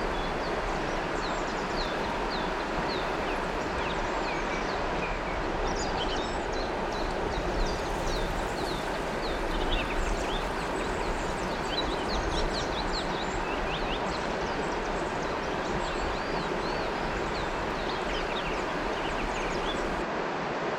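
Steady rush of river water flowing, with many birds chirping over it in short, high, quick calls throughout.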